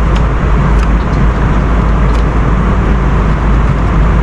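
Steady drone of an airliner cabin in flight, engine and airflow noise, with a couple of faint clicks.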